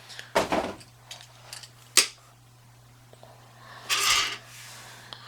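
Small toy being handled: scattered clicks and knocks, a sharp tap about two seconds in and a brief rustle about four seconds in, over a steady low hum.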